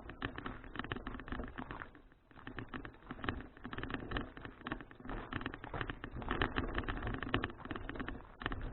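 Ride noise on an action camera's microphone while cycling: a dense, irregular crackle of wind buffeting and road rattle, with a brief lull about two seconds in.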